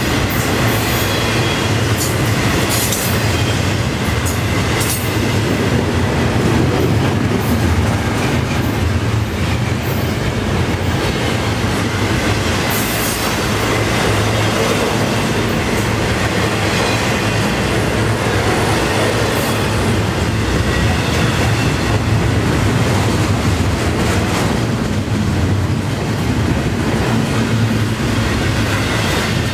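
Double-stack container well cars of a long intermodal freight train rolling past at about 28 mph: a steady rumble and rattle of steel wheels on the rails. Brief sharp high sounds come now and then, around the first few seconds and again about halfway through.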